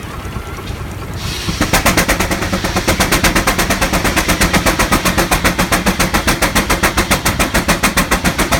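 Steam engine running fast, its exhaust giving a rapid, even chuffing of about eight beats a second that starts about two seconds in over a steady low rumble.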